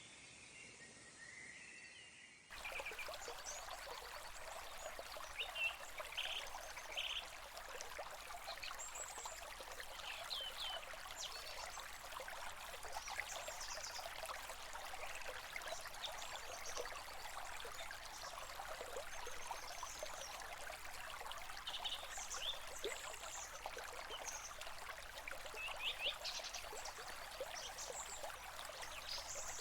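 A stream running steadily, with birds chirping over it in short, scattered calls. About two seconds in, the sound changes abruptly from a quieter stretch of birdsong.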